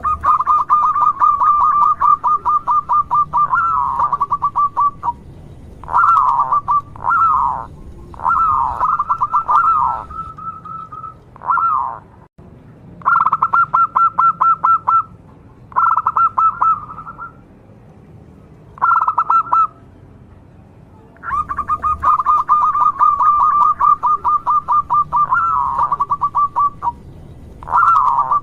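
A local perkutut (zebra dove) singing, loud and close: a long rapid rattling trill of pulsed notes, then a run of shorter trilled bursts with pauses between them, and about two-thirds through the phrase pattern starts again with another long trill.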